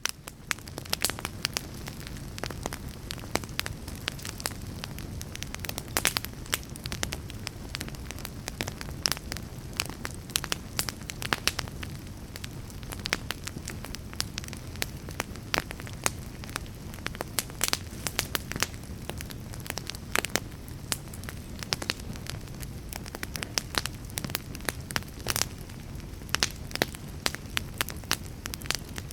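Fire crackling: frequent sharp pops and snaps, irregularly spaced, over a steady low rumble of the flames.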